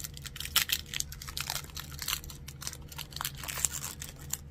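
Foil Pokémon booster pack wrapper being torn open and crinkled, a dense run of irregular crackles and rips.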